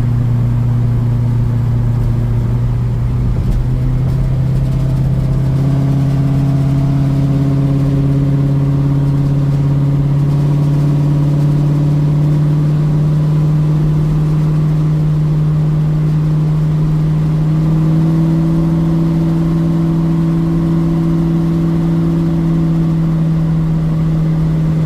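1972 Ford Mustang Mach 1's V8, with an aftermarket Crane cam and a Black Widow Race Venom muffler on a single 3-inch exhaust, pulling under way, heard from inside the car. The note is loud and its pitch climbs slowly and steadily as the car gains speed.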